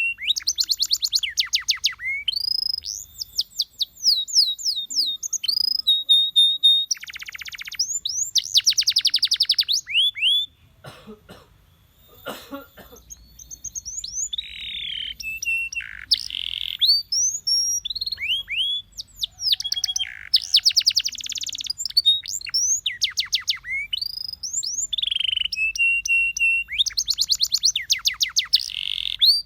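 Canary singing: long runs of rapid trills and quick, sweeping whistled notes, with a short pause about eleven seconds in.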